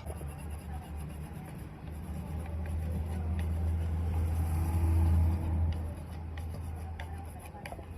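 A low engine rumble that swells to a peak about five seconds in and then eases off, with a few light clicks over it.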